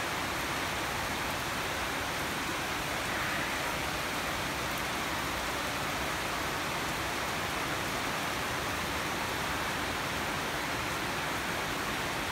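Heavy rain pouring down, a steady even hiss of rainfall with no let-up.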